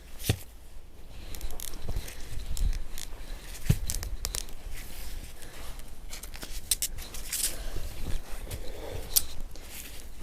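Snow brush sweeping soft, fresh snow off a car: irregular swishing and scraping strokes over a steady low rumble.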